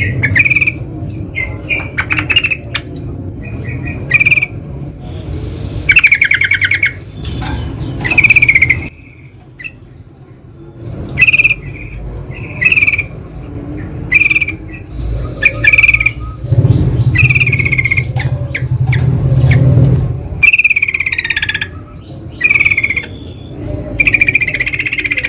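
Yellow-vented bulbuls (trucukan) calling in the wild: short, loud, bubbly chattering phrases repeated every second or two, several birds answering one another. A low rumble runs underneath and swells about two-thirds of the way in.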